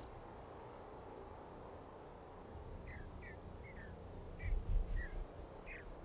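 Small bird chirping: about six short, falling chirps in the second half, over a faint outdoor hiss. A low dull thump comes about halfway through and is the loudest sound.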